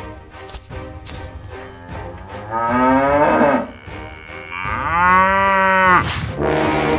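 Cattle mooing twice over background music: a shorter moo about two and a half seconds in, then a longer one that ends near the cut about six seconds in.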